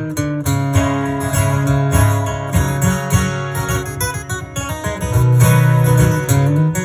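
Live acoustic band playing an instrumental passage without singing, led by strummed acoustic guitar over a low, steady bass register.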